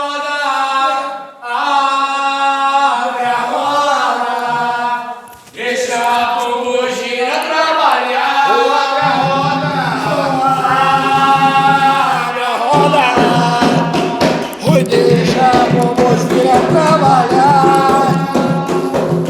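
Voices singing a ritual chant (a ponto of the kind sung to Exu after 'Laroiê' salutations). Percussion comes in partway through and continues under the singing.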